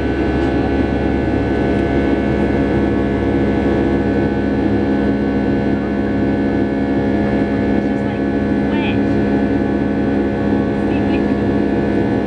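Boeing 757-300 jet engines heard from inside the passenger cabin: a loud, steady drone with several constant tones and no change in pitch or level.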